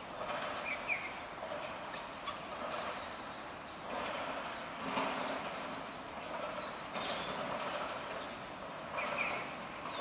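Birds chirping and calling in short notes over a steady background noise, with louder patches of calling midway and near the end.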